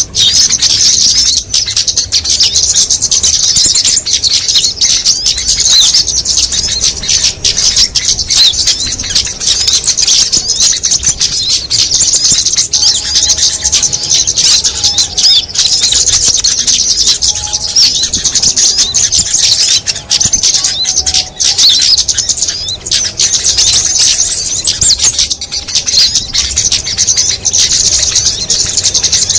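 Dense, continuous high-pitched twittering and chirping of many small songbirds at once: a mixed bird-lure call used to draw small birds. A few fainter, lower whistles come through in the middle.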